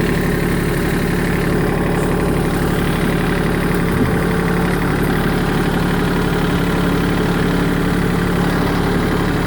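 Vehicle engine idling steadily at a constant speed.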